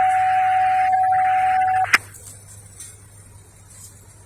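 Radio scanner receiving a transmission: a single steady tone over radio hiss for about two seconds, cut off by a click as the squelch closes. Only a faint background remains after that.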